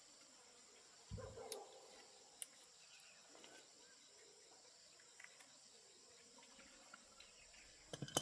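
Faint, steady high-pitched insect chirring, with a few soft knocks and clicks over it. The loudest knocks come about a second in and just before the end.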